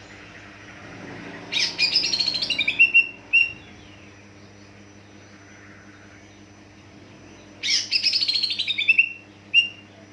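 Green leafbird (cucak ijo) singing: two bursts of rapid, high chattering notes falling in pitch, each about two seconds long and ending with a short separate note, over a steady low hum.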